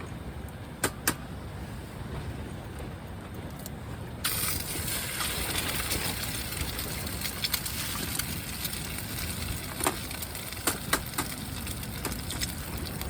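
Strong wind buffeting the microphone as a steady low rumble, with a few sharp clicks or snaps: two about a second in and three more near the end. About four seconds in, a brighter hiss suddenly joins the rumble.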